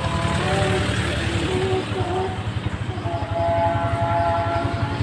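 Motor vehicle engines running low and steady as a slow motorcade passes, with a slow melody of held notes playing over them.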